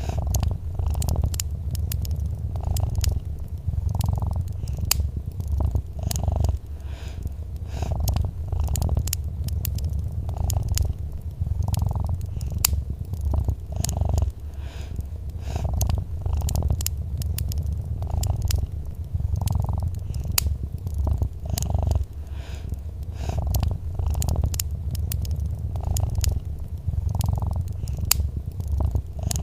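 Domestic cat purring steadily, a low rumble that swells and fades in a slow regular rhythm. A wood fire crackles with frequent sharp pops over it.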